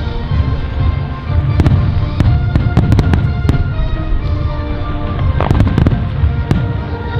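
Aerial fireworks display: a continuous low rumble of bursting shells with many sharp crackles and bangs, over music with held notes.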